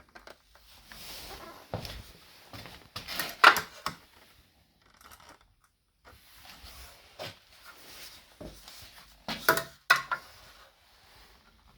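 Handling and work noises: scraping and rustling, with a few sharp knocks, the loudest about three and a half seconds in and again near the end.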